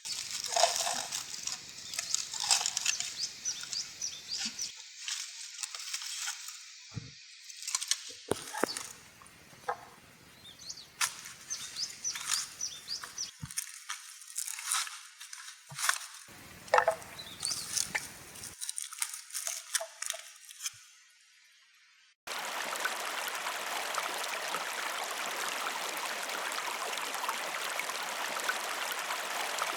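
A run of sharp, irregular clicks and taps for about twenty seconds. After a sudden cut, the steady rush of a flowing river.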